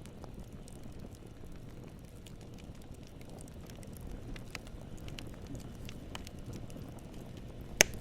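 Campfire burning with a low steady rumble and scattered small crackles, and one loud sharp pop near the end.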